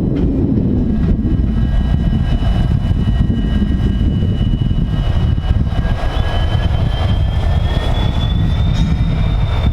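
Diesel-electric locomotive running, a heavy low rumble with a thin, high whine that rises slowly in pitch in the second half.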